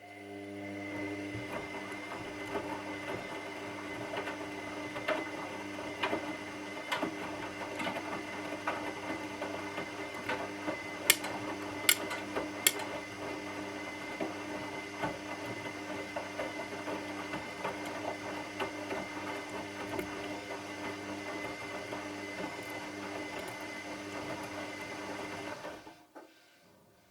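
Washing machine drum turning on its motor during a wash cycle, a steady hum with the load clattering and clicking in the drum, including three sharp clicks near the middle; the drum stops about 26 seconds in.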